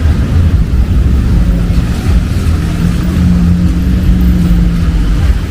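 Heavy rain on a city street with a car engine running close by; a steady engine hum stands out from about two seconds in until near the end.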